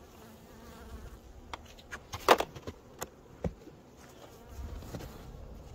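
Honeybees buzzing around an open hive, with a few sharp knocks and clicks, the loudest a little over two seconds in.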